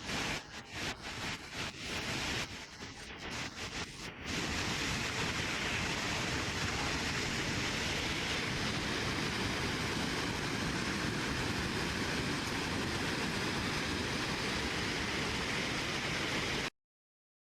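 Rushing floodwater from a monsoon-swollen river: a hissing rush that comes and goes for the first four seconds, then runs steady and even, and cuts off suddenly near the end.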